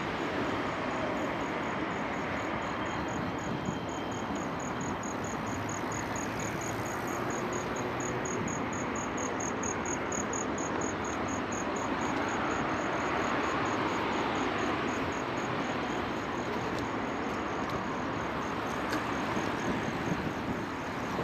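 An insect chirping in a high, even pulse of about five chirps a second, loudest around the middle, over a steady rush of city traffic noise.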